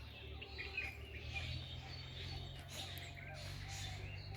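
Small birds chirping and calling over a steady low engine drone from a distant tractor.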